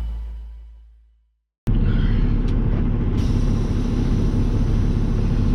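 Background music fading out over the first second, then, after a brief gap, a steady low rumble of a semi truck's engine starts abruptly.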